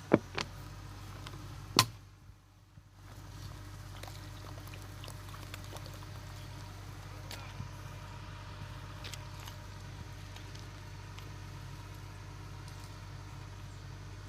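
Steady low hum of a heavy diesel machine running, with two sharp knocks in the first two seconds.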